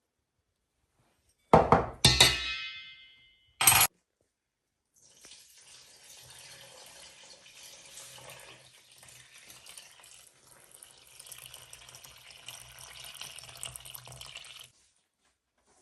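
Dishes knocking together, one with a short ringing clink, then water running from a tap for about ten seconds before it is turned off.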